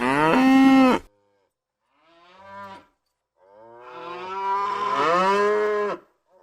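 Cow mooing: a loud moo that ends about a second in, a short quieter moo, then a long moo of nearly three seconds.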